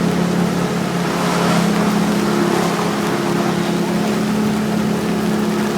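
A motor runs at a steady, unchanging speed, its constant low drone under an even hiss of rain.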